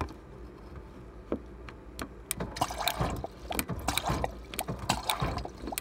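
Quick clicks and rattles of a freshly greased KitchenAid refrigerator water-dispenser switch being worked back and forth with a screwdriver. There are a few scattered clicks at first, and they come thick and fast from about two seconds in.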